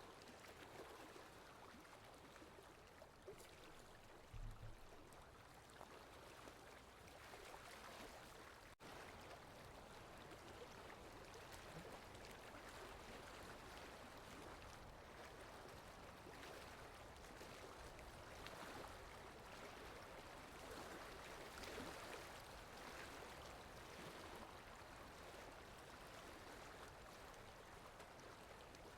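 Faint, steady rain ambience: an even hiss of falling water, with a soft low bump about four and a half seconds in.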